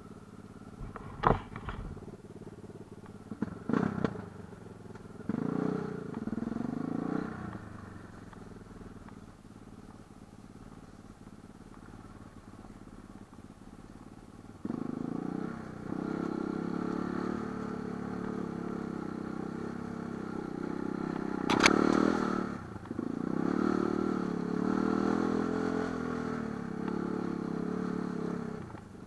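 Light enduro motorcycle engine revving up and down while riding, with a few sharp knocks in the first few seconds and a loud one about three-quarters through. The engine drops low for several seconds in the middle, then runs louder again from about halfway.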